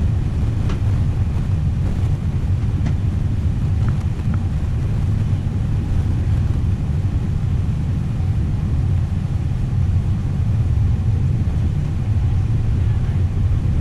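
Steady low rumble of an Airbus A320 cabin while the airliner taxis, its engines and the wheels on the taxiway giving an even drone.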